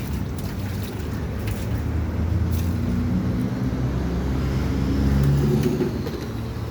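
A motor running with a steady low rumble, its pitch shifting in the middle.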